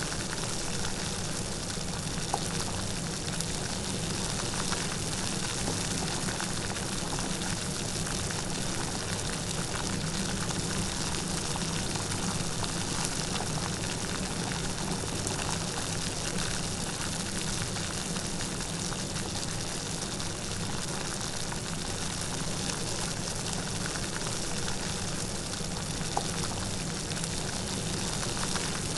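Steady light rain falling, an even patter of drops with no thunder.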